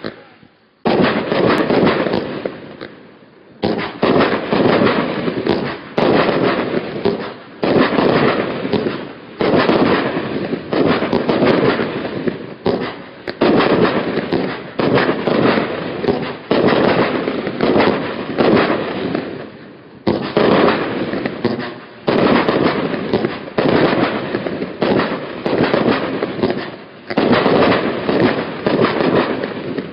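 A Skycrafter 'Eagles Vs Seagulls' 61-shot firework barrage firing shot after shot. A loud burst comes about every second to second and a half, and each one fades away before the next.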